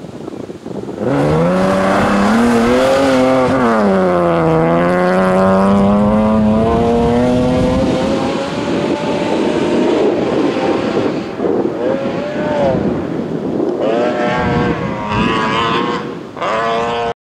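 BMW E36 M3 rally car's straight-six engine at high revs, its pitch rising and falling through gear changes as it pulls away. Near the end it revs up and drops back several times in quick succession, then the sound cuts off suddenly.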